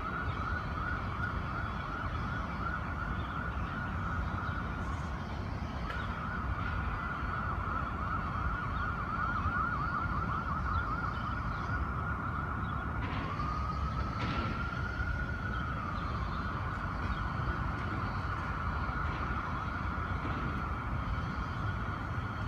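Emergency vehicle siren sounding over low city traffic rumble: a steady high tone, a fast warbling yelp for several seconds near the middle, then one slow rise and fall before it holds steady again.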